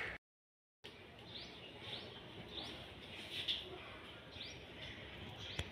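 Faint bird chirps, short and repeated about once a second, over a quiet background hiss. The sound drops out completely for a moment just after the start, and there is one sharp click near the end.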